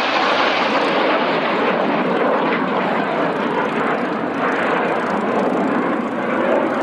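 Jet aircraft flying overhead: a loud, steady rushing engine noise with no sharp changes.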